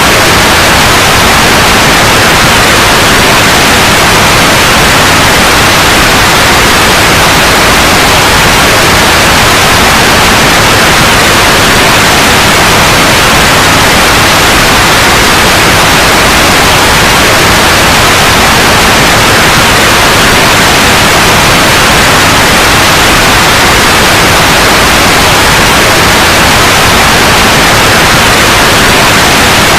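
Loud, steady white noise: an even, unchanging hiss.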